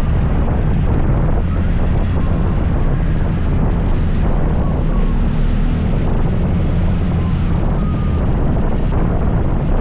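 Scooter engine running steadily while riding, a continuous low drone with wind rushing over the microphone.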